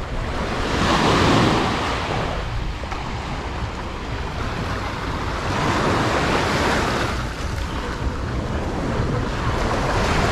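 Sea waves washing up onto a beach, swelling about a second in and again midway, with wind rumbling on the microphone.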